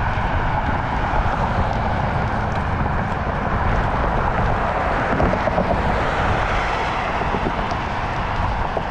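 Steady wind rush and road noise while riding a bicycle, the wind buffeting the action camera's microphone in a low, fluttering rumble.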